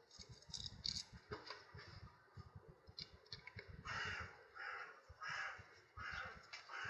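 A crow cawing five times in an even series in the second half, over faint clicks and handling noise from work on the bench.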